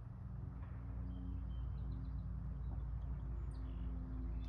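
Faint, scattered songbird chirps over a steady low rumble of outdoor background noise.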